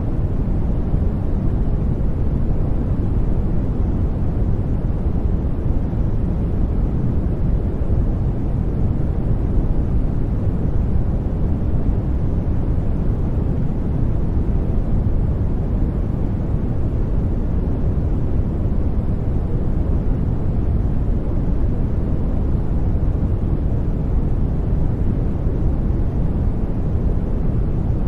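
Steady sleep noise track: an even, deep, muffled rush with little hiss, unchanging in level or colour.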